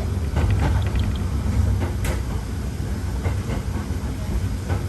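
Hakone Tozan Railway 1000 series electric train running, heard from on board: a steady low rumble with scattered wheel clicks over the rails, one sharper click about two seconds in.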